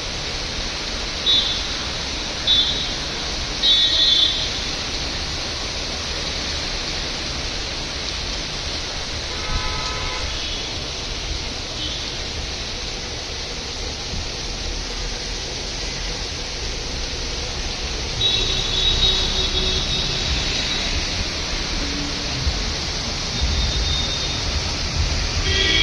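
Heavy rain falling as a steady, even hiss. Brief high-pitched tones cut through it several times: three short ones near the start, one about ten seconds in, and a longer run about two thirds of the way through.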